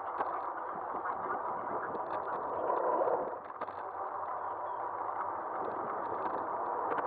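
Riding noise of an e-bike on pavement, picked up by a cheap action camera mounted on the front of the bike: a steady rush of wind and tyre noise with scattered clicks and rattles. The rush swells briefly about three seconds in.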